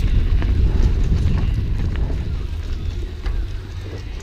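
Wind buffeting the camera microphone over the rattle of a mountain bike running down a rough trail, with a few short clicks and knocks, getting quieter toward the end.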